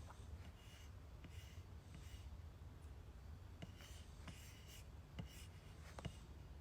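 Near silence with faint scratchy rubbing and a few small clicks over a low hum.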